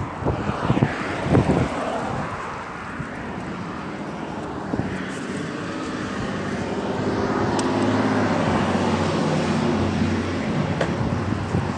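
A vehicle engine running with a steady hum that grows a little louder from about five seconds in, after a few bumps about a second in.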